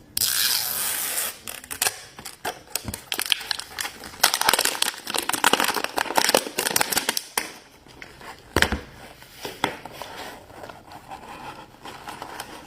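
Toy packaging being torn open and crinkled by hand, a dense crackling for about seven seconds, then a single knock a little after eight seconds and lighter clicks of handling.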